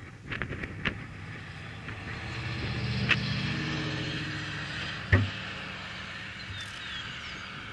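A motor vehicle's engine running, swelling over a couple of seconds and then easing off, with a sharp knock about five seconds in.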